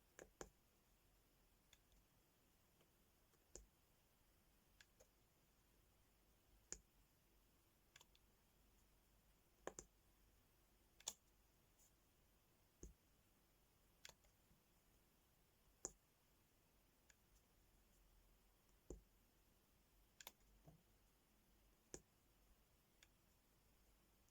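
Faint, sharp clicks and taps of a diamond-painting pen setting resin drills onto a sticker canvas, one every second or two.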